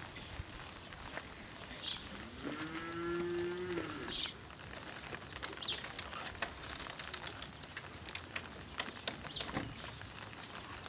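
A cow moos once, a steady call lasting a little under two seconds starting about two seconds in. Short high chirps come and go around it.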